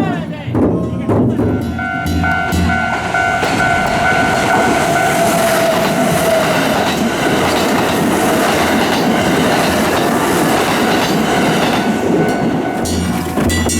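Kintetsu Nara Line train running past at the level crossing: a loud, steady rush of wheels on rail with a steady whine over it. It builds about two seconds in and fades near the end.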